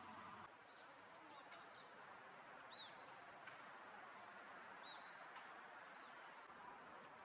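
Faint, short bird chirps, about five of them in small clusters, over a quiet steady background hiss.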